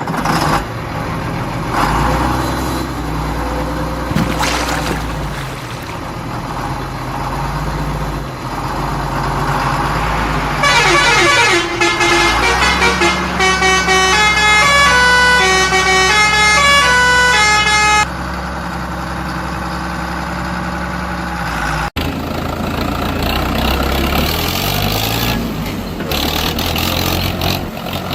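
Heavy vehicle engines running, with a tune of short stepped notes played on a musical horn in the middle, from about 11 to 18 seconds. The sound changes abruptly at a cut near the end.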